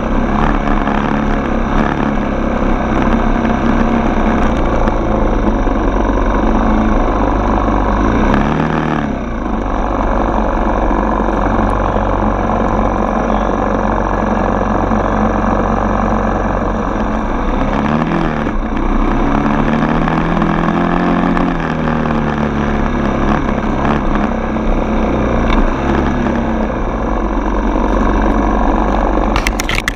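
Engine of a Yamaha TT-R 230 trail bike, an air-cooled single-cylinder four-stroke, running under way. Its pitch drops and climbs again as the throttle eases and picks up, about a third of the way in and again just past halfway.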